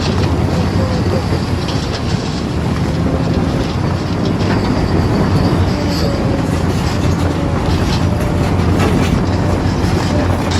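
Diesel engine of a backhoe loader running steadily while working, with scattered metallic clanks and rattles.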